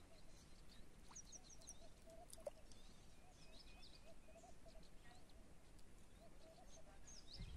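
Faint birds chirping and calling: many short high chirps over a lower wavering call that comes and goes, with one soft click about two and a half seconds in.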